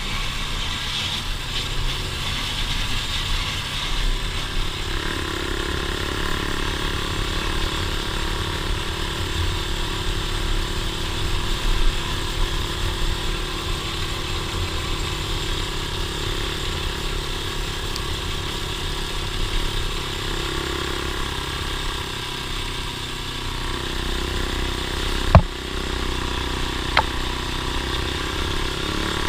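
Engine of an off-road vehicle running steadily, with one sharp knock near the end.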